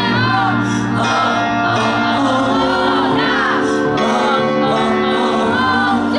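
Live band music with a singer's wordless vocal runs bending up and down in pitch over sustained instrument chords.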